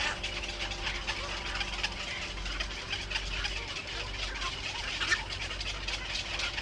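Small birds chirping rapidly and repeatedly, over a steady low hum.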